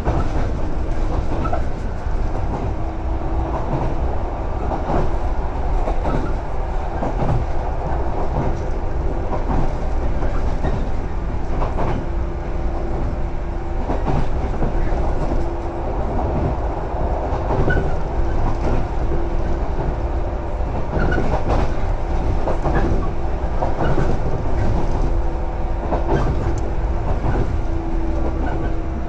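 115 series electric train running at speed, heard from inside the passenger car: a steady rumble of wheels on rail with repeated clicks of the wheels over rail joints and a steady hum.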